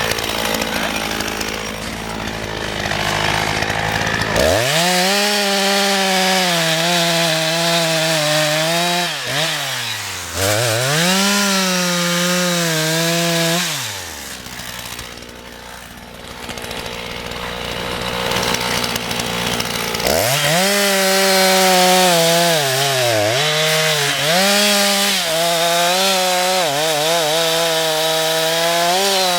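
Husqvarna two-stroke chainsaw idling, then opened up to full throttle about four seconds in. Its pitch sags and recovers as the chain bites into wood. It drops back to idle midway and opens up again to cut for the last third.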